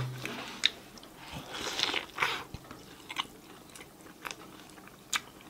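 Close-miked chewing of a mouthful of burger: soft wet mouth smacks with a few sharp clicks scattered through.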